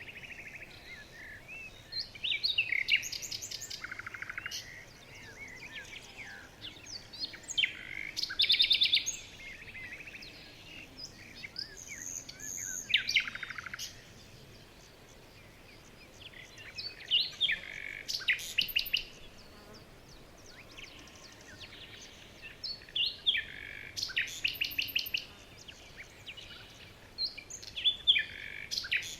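Songbirds singing outdoors: high-pitched song phrases with fast trills and chirps, coming every few seconds with short pauses between, over faint steady background noise.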